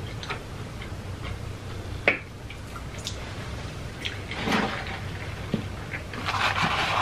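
Wet chewing and mouth sounds of people eating fast food close to the microphone. Small clicks run through it, with a sharper click about two seconds in and short rustling or slurping noises about four and a half seconds in and again near the end.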